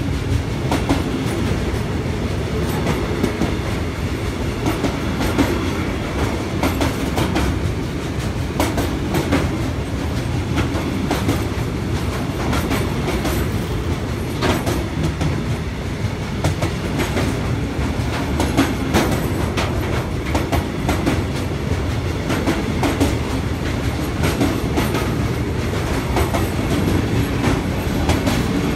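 Freight train of container wagons loaded with tank containers rolling past: a steady rumble of wheels on rail with frequent irregular clicks from the wheels and wagons.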